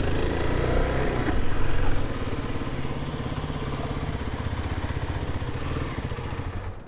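Kawasaki KLX 300's single-cylinder four-stroke engine running at low speed, a little louder for a moment about one to two seconds in, then settling into an even, pulsing idle. It drops away sharply at the very end.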